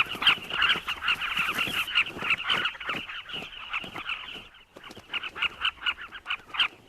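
Carmine bee-eaters calling at their nesting colony: many short, rapid calls overlapping in a busy chatter, thinning out a little after about four and a half seconds, the squabbling of birds fighting over nest burrows.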